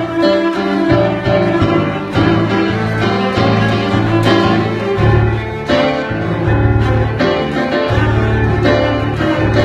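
Cello bowing long, sustained low notes in an improvised duet with a busker's accompaniment, which sets sharp, rhythmic note attacks.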